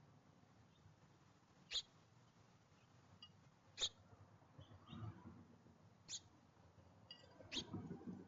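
Birds at a backyard seed feeder: four sharp, short high clicks about two seconds apart, with faint high chirps between them.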